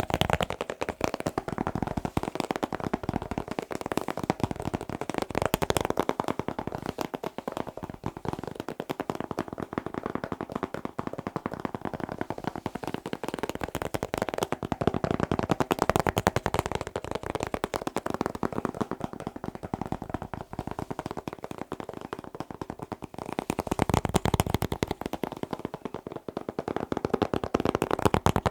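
Fast, continuous tapping on a hard object, many taps a second, growing louder for a while around six seconds in, around a quarter of the way past the middle, and again near the end.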